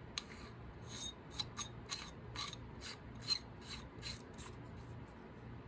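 The collar of a Fuji T70 spray gun's air nozzle being screwed onto its threads by hand: a run of short scraping clicks, about two or three a second, that stops about four and a half seconds in.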